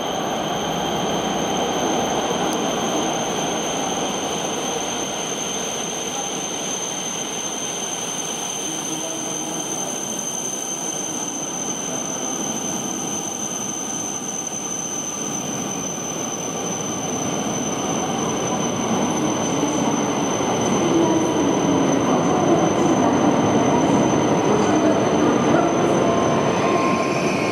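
E5 series Shinkansen train arriving along the platform: a steady rush of wheels and air that grows louder in the second half as the carriages slide past, slowing. A few held squealing tones come in near the end as it brakes.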